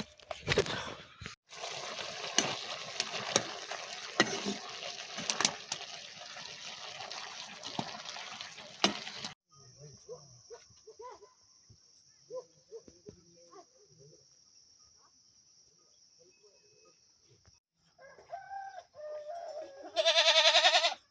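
A goat bleating loudly near the end, a wavering call that follows a few softer calls. Earlier there is a steady noisy hiss with small pattering clicks, like rain, which stops abruptly about nine seconds in and leaves a faint high steady tone.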